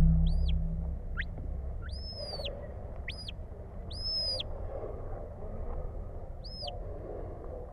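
A shepherd's whistle giving a string of short whistle commands to a working sheepdog: about seven high notes, each swooping up and falling away, two of them drawn out longer, over a steady low rumble.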